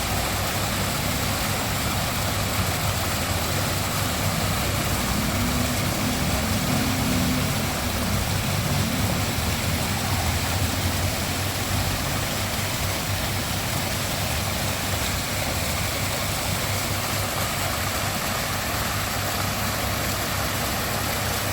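Waterfall, water pouring and splashing steadily with a low rumble underneath.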